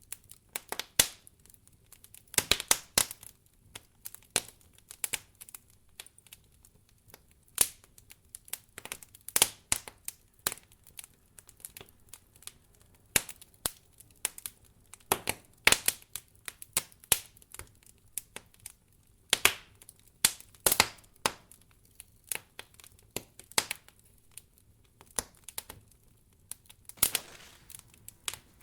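Wood fire crackling in a fireplace: irregular sharp pops and snaps, some in quick clusters, with quiet gaps between them.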